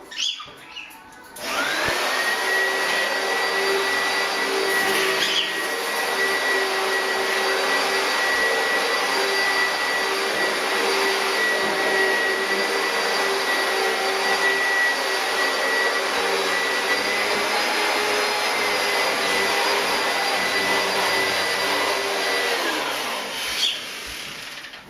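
An electric appliance motor switches on, winds up to a steady whining run, and keeps going for about twenty seconds. Near the end it is switched off and winds down.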